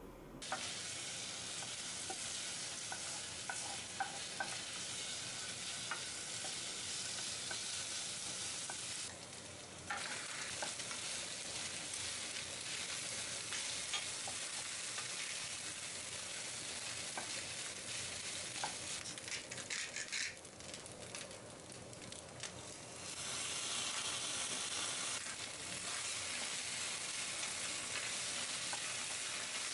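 Onion, sausage and then rice sizzling in a frying pan while a wooden spatula stirs and scrapes, with small clicks of the spatula against the pan. The sizzle dips briefly about nine seconds in and again around twenty seconds, then comes back louder.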